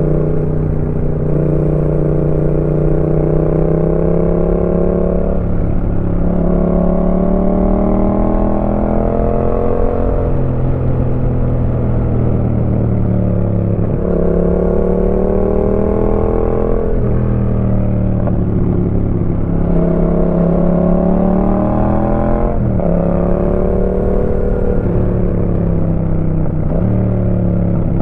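Yamaha MT-07's 689 cc parallel-twin engine through a Roadsitalia aftermarket exhaust, ridden on the road. The revs climb and fall over and over, and the pitch drops abruptly about seven times, roughly every three to five seconds.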